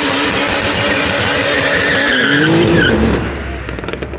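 A vehicle doing a burnout: loud tyre-spinning noise with the engine revving up and down over it. The sound dies away about three seconds in.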